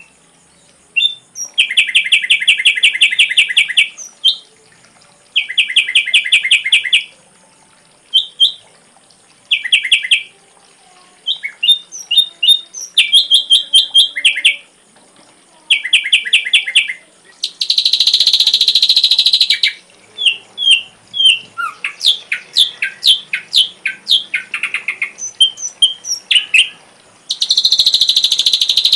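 Ashy drongo singing: repeated bursts of rapid trills about two seconds long, mixed with short whistled notes and two harsh rasping calls. A faint steady high tone sits underneath.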